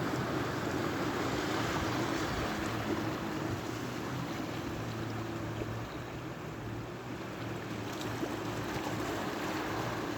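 Sea waves washing steadily along the shore, a continuous rushing with no distinct breaks, over a steady low hum.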